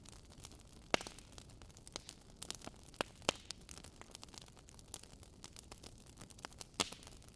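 Campfire burning: a steady low hiss with irregular crackles and sharp pops of burning wood, the loudest pops about a second in and near the end.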